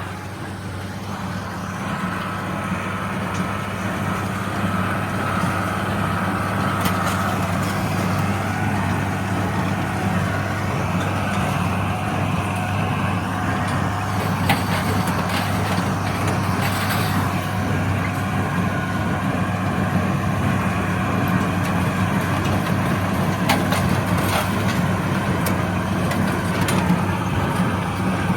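International Harvester 886 diesel tractor running steadily under load while pulling a John Deere 348 small square baler, growing louder over the first couple of seconds. Sharp metallic clanks from the baler come every so often over the engine.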